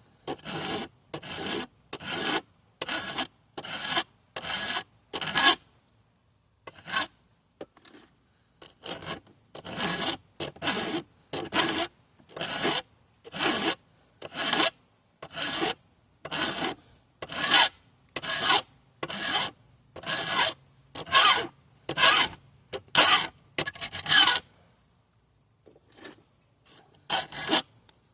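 Hand file rasping across the teeth of a chainsaw chain in repeated strokes, about two a second, with a couple of short pauses between runs.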